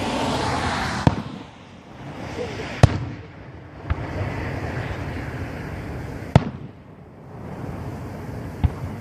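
Aerial fireworks bursting in a professional 1.3 fireworks display. There are five sharp booms, the loudest about three seconds in and again a little past six seconds, with a noisy wash between them that rises and falls.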